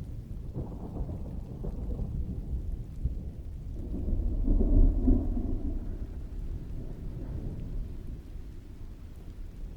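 Distant rolling thunder over steady rain, a low rumble that swells to its loudest about halfway through and then slowly fades.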